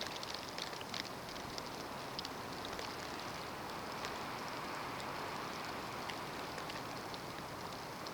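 Snowstorm ambience: a steady rushing hiss of storm wind, with scattered light ticks of snow grains striking a surface, thickest in the first second.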